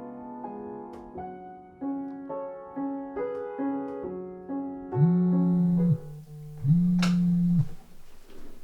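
Soft piano music, then a mobile phone on vibrate buzzing twice, each buzz about a second long, for an incoming call.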